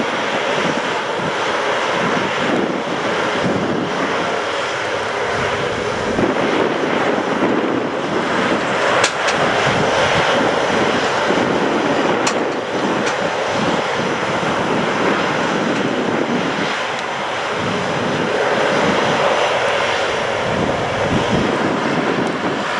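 Aircraft engines running steadily on an airfield, a continuous loud noise that neither rises nor falls, from military jets and transports taxiing before departure.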